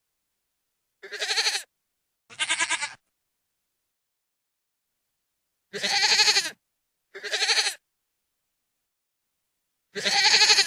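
Goat screaming: five loud, wavering bleats, each under a second long, coming as two quick pairs and then a last call near the end, with total silence between them.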